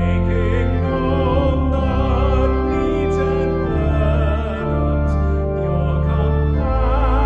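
Church music: a singer with vibrato over organ accompaniment, held notes changing every second or so.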